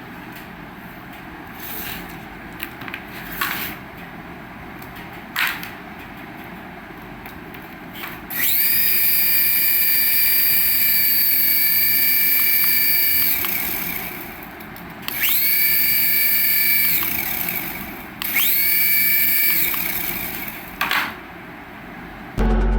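Small electric motor of a remote-control toy whirring in three runs. A high whine climbs as it spins up and holds steady for about five seconds, then comes twice more for a second or two each. A few clicks and knocks come before the first run.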